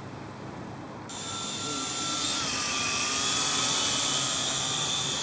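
Small quadcopter drone's propellers whining; the whine starts suddenly about a second in, grows louder, then holds steady as the rotors run up to flying speed.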